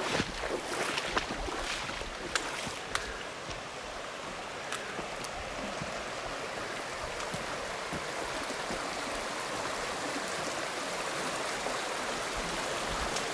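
Mountain stream flowing over rocks, a steady rush of water, with a few sharp clicks in the first three seconds.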